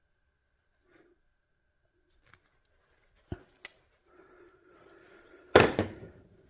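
Sharp metallic clicks from a hand tool working on wire and connectors: two crisp clicks, a light rustle, then a loud snap near the end followed closely by a second.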